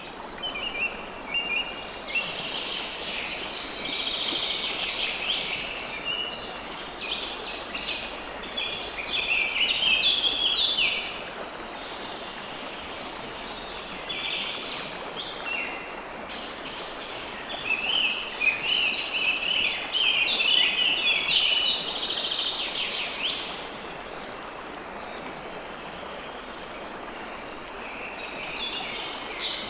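River water flowing steadily under songbirds chirping and twittering in long, busy bouts. The birds go quieter for a few seconds twice, leaving only the rush of the water.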